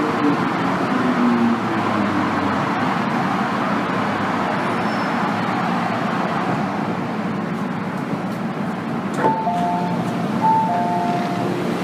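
Inside an MTR Tsuen Wan Line M-Train carriage: the train's steady running rumble, with an electric traction whine falling in pitch over the first second or so. About nine seconds in there is a click, then a two-tone electronic chime, high then low, played twice.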